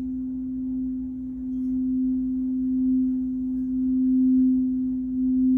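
Root-chakra crystal singing bowl sounding a single steady pure tone. It slowly grows louder with a gentle wavering swell.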